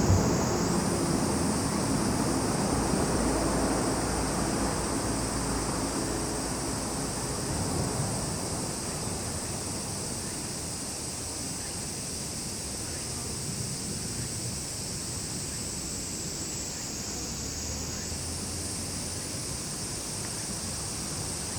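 Cicadas buzzing in a steady, high-pitched summer chorus, the pitch sagging slightly and then stepping back up near the start and again about 18 seconds in. A low rumble underneath fades away over the first ten seconds or so.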